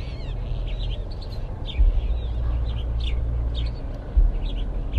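Small birds chirping in short, quick notes repeated all through, over a steady low rumble that swells suddenly about two seconds in and again near the end.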